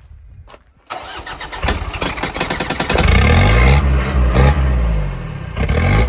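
Mitsubishi Shogun engine cranked on its starter for about two seconds, then catching and running loud, revved up and down a few times.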